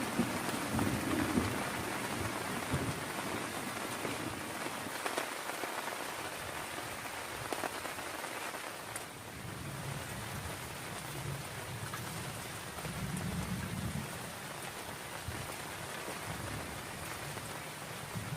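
Heavy rain falling steadily, with single drops ticking sharply on a nearby surface. Low thunder rumbles in the distance, near the start and again about ten to fourteen seconds in.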